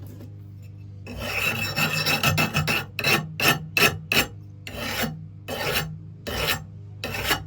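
Metal file rasping over the cutting edge of a hardened steel knife blade: about a second of continuous filing, then a run of separate quick strokes about two a second. The file is going over the freshly heat-treated edge to prepare it for hardness testing.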